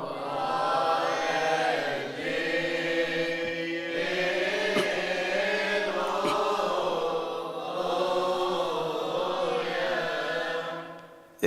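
Coptic Orthodox hymn chanted in long, drawn-out melismatic notes, softer than the solo voice around it, fading out near the end.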